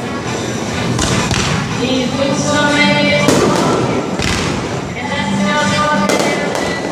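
Fireworks shells bursting in several loud booms a second or two apart, over music played on the stadium loudspeakers.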